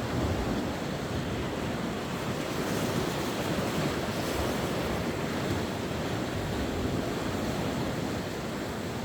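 Sea waves washing steadily onto the shore, a continuous surf wash that swells a little and eases again.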